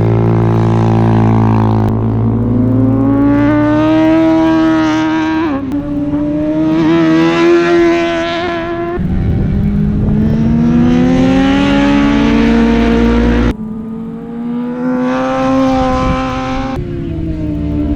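Motorcycle engines revving as superbikes ride the track. The pitch rises as they accelerate and falls away as they pass, and the sound changes abruptly a few times.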